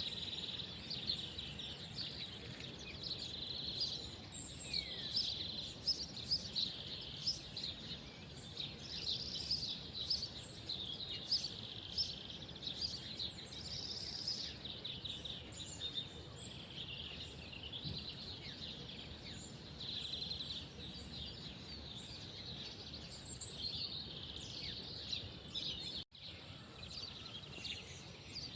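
Many small birds chirping and twittering together over a low, steady background rumble. The sound drops out for an instant near the end.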